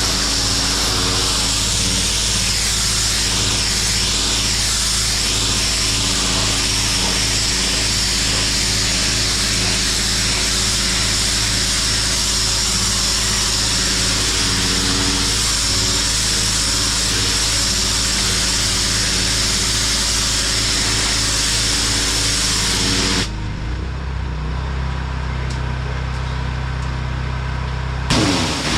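Pressure washer running, a steady motor hum under the loud hiss of its high-pressure water jet on concrete. Near the end the spray stops for about five seconds and the machine's tone changes, then the jet starts again with a sharp click.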